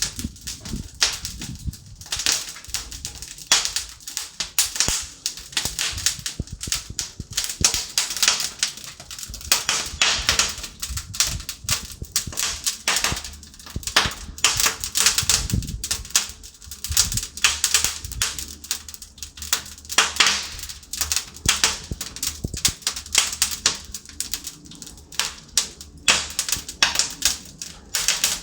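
Wood fire crackling and popping in the firebox of a brick barbecue-fireplace, with quick irregular snaps.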